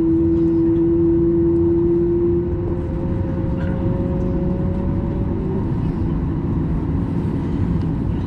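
Cabin noise of a Boeing 737 MAX 9 with its CFM LEAP-1B engines running at idle: a steady low rumble under a whining tone that climbs slightly in pitch and fades out about halfway through.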